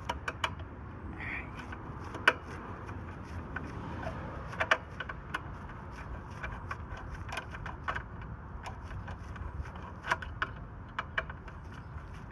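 Scattered light metallic clicks and taps of a tool working a nut tight on the mounting bracket of an air-conditioner capacitor, a few sharper knocks among them, over steady low background noise.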